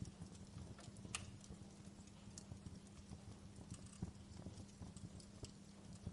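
Campfire burning with irregular crackles and snaps over a low, steady hiss of flame. A sharper pop comes about a second in.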